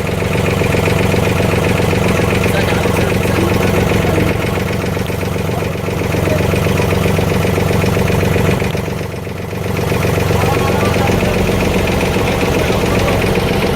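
A motorboat engine running steadily, its level dipping briefly about nine seconds in.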